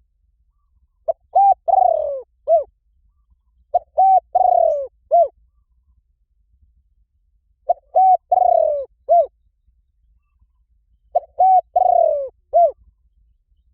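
Spotted dove cooing: four repeated phrases about three to four seconds apart. Each phrase is a few short arched coos with one longer falling coo near its end.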